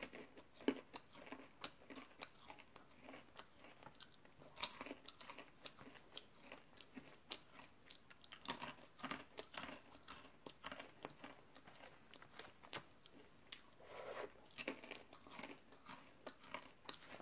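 Caramel pretzel popcorn chewed close to the microphone: quiet, irregular crisp crunches and small clicks of a crunchy caramel-coated snack being bitten and chewed.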